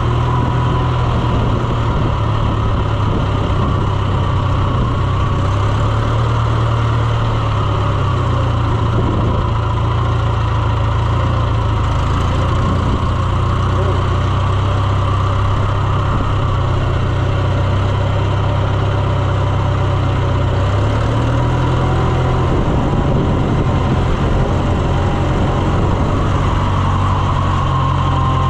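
Farm vehicle engine running steadily while driving, heard from on board, its pitch dipping and rising slightly a few times.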